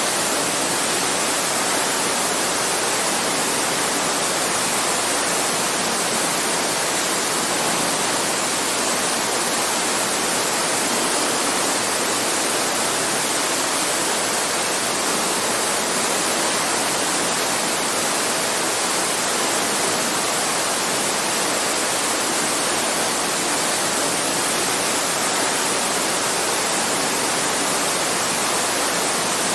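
Babbling creek: a steady rush of running water.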